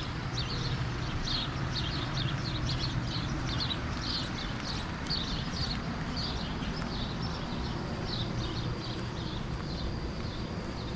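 Songbirds chirping in a quick steady series of short high calls, about two to three a second, over a low steady hum. A thin high steady whine joins about seven seconds in.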